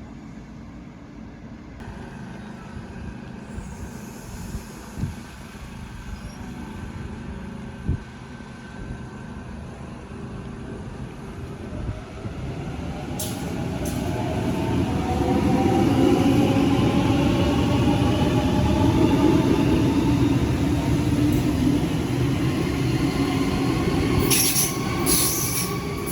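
Electric passenger train getting louder as it moves through the station, its traction motors giving a whine that rises in pitch as it gathers speed. Near the end it adds short high-pitched wheel squeals.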